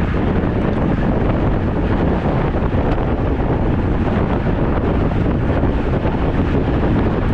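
Steady wind rushing over the microphone of a camera carried on a moving road bicycle.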